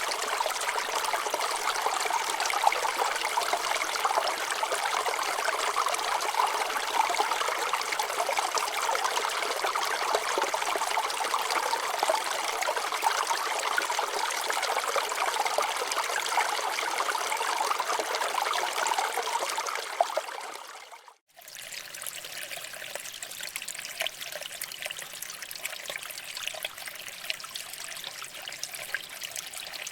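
Water trickling and splashing over rocks in a stream, a steady rushing flow. About 21 seconds in it fades out to a brief silence, then returns quieter.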